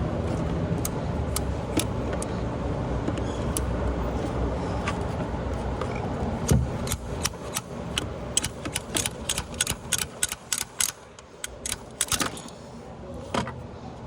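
A steady low hum for the first half ends with a thump. Then comes a quick run of sharp metallic clicks and clinks from hand tools working on the engine's fuel injectors, with a last click near the end.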